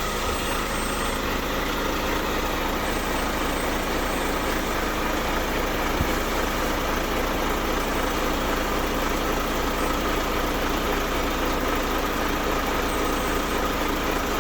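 Container truck idling steadily while its air suspension raises the truck, a steady even noise with one short click about six seconds in.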